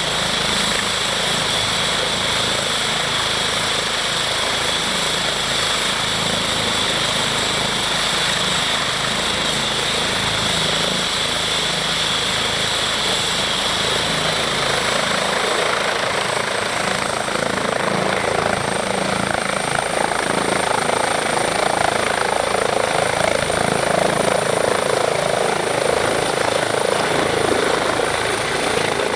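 Eurocopter EC135 T2 helicopter running, a steady high twin-turbine whine over the rhythmic beat of the rotor. About halfway through it grows louder and a high whine slowly rises in pitch.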